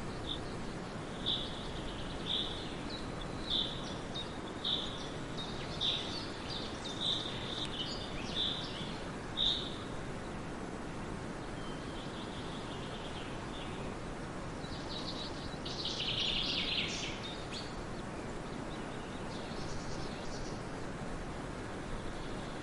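A songbird calling: a short high note repeated about once a second for the first ten seconds, then a denser burst of chattering about fifteen seconds in, over a steady background hiss.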